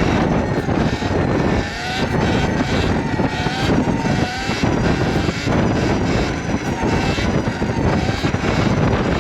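Sur-Ron electric dirt bike being ridden: heavy wind buffeting on the mic and tyre noise, with a faint motor whine rising and falling in pitch as the throttle is worked.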